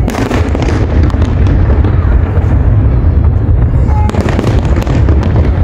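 Aerial firework shells bursting in a dense, continuous barrage of booms, with clusters of sharp cracks just after the start and again about four seconds in.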